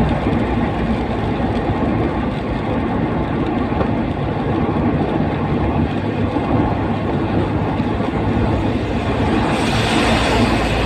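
A vehicle driving through floodwater: a steady engine and road rumble, with a brighter hiss joining near the end.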